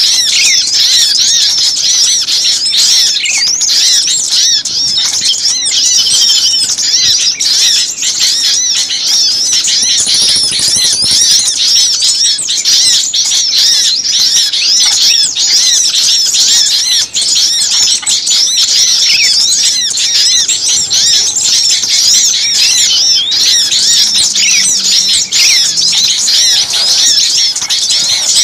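A dense, agitated chorus of many small songbirds: rapid high-pitched chirps and twitters overlapping without a break, with now and then a lower downward slurred note. This is a lure call of noisy, excited small birds, played to draw other small birds in.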